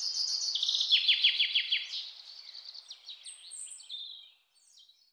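Birdsong: high chirping and whistled calls over a faint hiss, with a quick run of about five falling notes a second in, fading out near the end.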